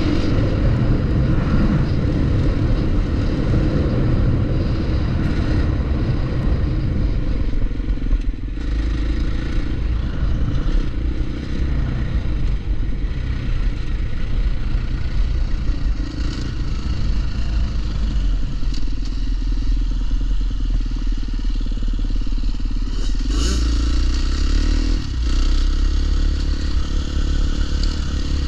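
Dirt bike engine running continuously as the bike is ridden on trail, its pitch shifting up and down with the throttle.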